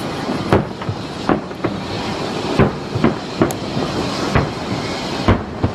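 Fireworks shells bursting in the sky, about ten sharp bangs at irregular spacing, roughly two a second, over a steady background noise.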